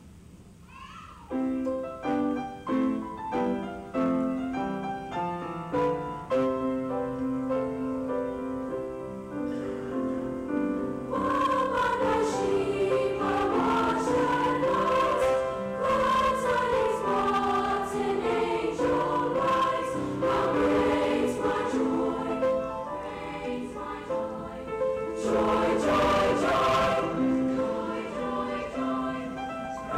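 A school choir performing: an accompaniment of separately struck, fading notes plays an introduction, and the choir comes in singing about eleven seconds in.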